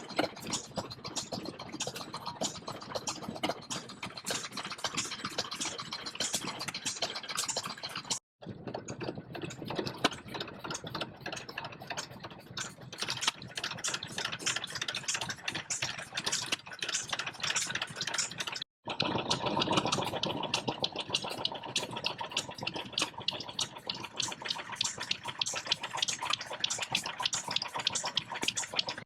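Vintage stationary engines running with a rapid, even knocking, heard in three separate stretches that each break off at a sudden cut.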